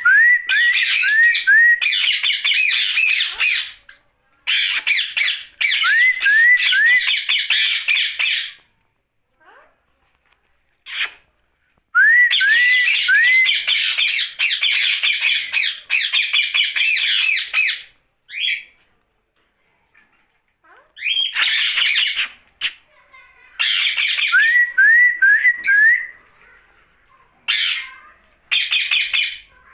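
Indian ringneck parakeet squawking and chattering in repeated harsh bouts, several starting with a quick run of three or four short rising whistles, with short pauses between bouts.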